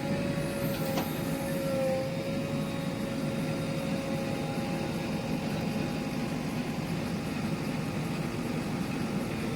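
Heavy construction machine's diesel engine running steadily, with a steady whine over it that lifts slightly about two seconds in.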